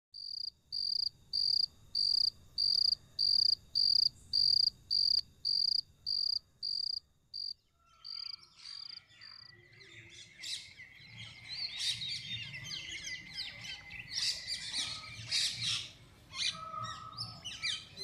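Birds calling in a garden. First a single high, clear note is repeated about twice a second for roughly nine seconds. Then a busy chorus of many overlapping bird chirps and calls follows.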